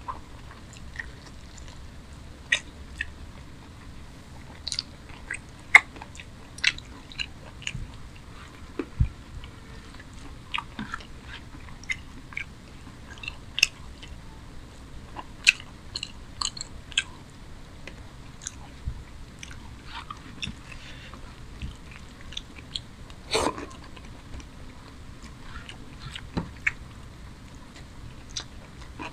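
Close-miked eating: a man chewing mouthfuls of rice and chicken curry, with short sharp mouth clicks at irregular intervals.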